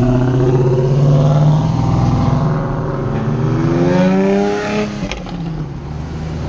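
Cars driving off past the camera. A steady low engine drone gives way to an engine accelerating, its pitch rising from about two and a half seconds in, loudest around four seconds, then falling away about five seconds in.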